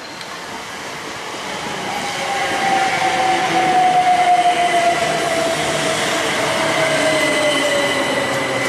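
A passing train gets louder over the first three seconds and then runs on steadily, with a whine that slowly drops in pitch and a fainter steady high tone above it.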